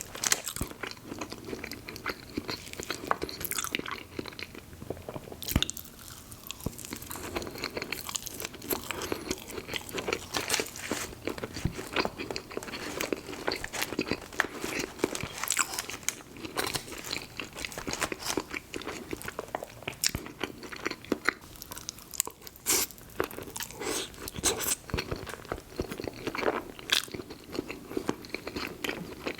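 Close-miked eating: a person biting and chewing crunchy food, with irregular crunches and wet chewing throughout.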